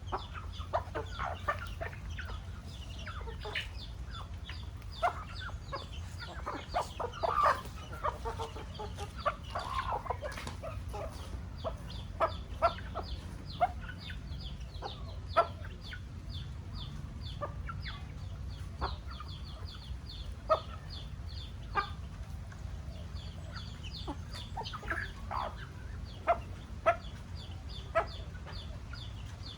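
Chickens clucking: many short, sharp clucks scattered throughout, with a few longer calls about seven to ten seconds in, over a steady low hum.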